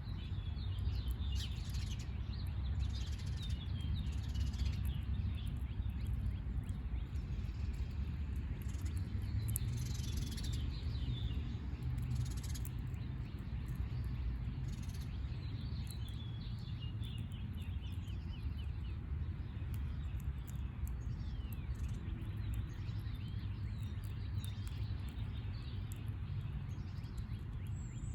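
Small birds chirping in quick runs of short notes, busiest in the first few seconds and again about halfway through, over a low steady rumble.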